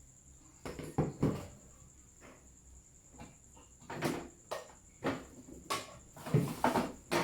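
Irregular knocks and clatters of household things being handled, like cupboard doors and kitchen items being opened, shut and set down, about ten separate hits with no steady rhythm.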